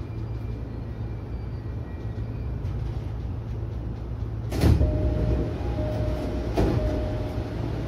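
Electric train standing at a station platform, its equipment giving a steady low hum. About four and a half seconds in there is a loud knock, followed by a steady beep that sounds on and off for a few seconds, with a second knock in the middle of it.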